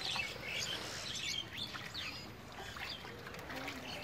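Birds chirping: many short, quick calls that rise and fall in pitch, scattered throughout.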